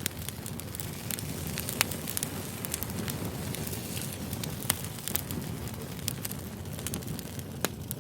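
Wood fire crackling: a steady hiss with irregular sharp pops and snaps, the loudest about two seconds in and near the middle.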